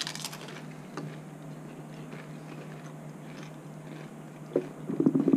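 Chips loaded with salsa crunching as they are bitten and chewed, with a sharp crunch right at the start and another about a second in, then quieter chewing. Near the end a voice starts a low murmur.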